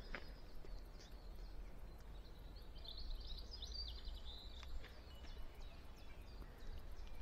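Quiet countryside ambience: a songbird twitters in a quick run of high chirps about three seconds in, over a steady low rumble, with a few faint taps.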